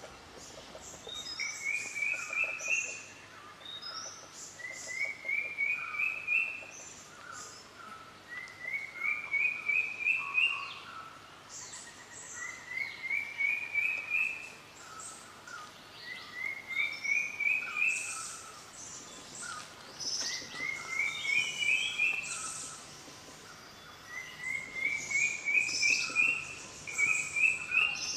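Forest birdsong: one bird sings a short phrase of quick notes climbing in steps, repeating it about every four seconds, while other birds call with lower notes and faint high chips.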